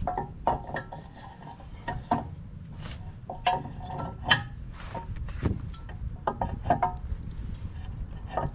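Steel latch parts and tools of a skid steer's quick-attach clinking and tapping together as they are handled and fitted, about a dozen short metallic strikes with a brief ring, irregularly spaced. A steady low rumble runs underneath.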